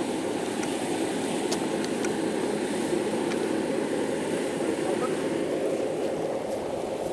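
Steady, even running of a vehicle engine, with a few faint clicks.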